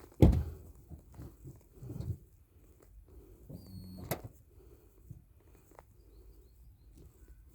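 A car door shuts with a loud thump, followed by quieter knocks and handling noises, a short electronic beep from the car and a sharp click a moment later.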